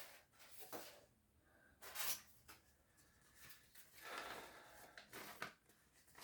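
Faint rustling of paper instruction sheets being handled and turned, in a few short bursts; the clearest comes about two seconds in and another just after four seconds.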